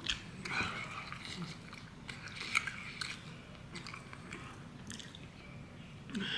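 A person chewing and biting food close to the microphone, with small irregular clicks and crunches.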